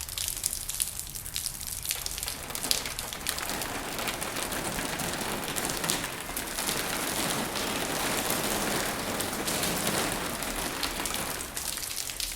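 Rain falling: a steady hiss dotted with many small drop ticks, growing heavier and fuller about two seconds in.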